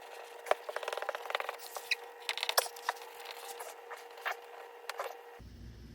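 Rubbing, crinkling and light clicking of hands working a vinyl decal and its tape on a car body panel, busiest in the first three seconds. A faint steady hum lies under it.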